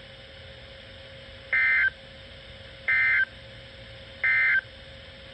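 Emergency Alert System end-of-message data tones: three short bursts of digital two-tone warble, about a second and a half apart, over a faint steady hum and radio hiss. The bursts mark the close of the flood warning broadcast.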